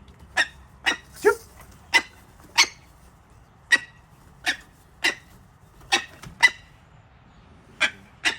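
Imprint bird of prey calling over and over, about a dozen short, sharp calls spaced half a second to a second apart.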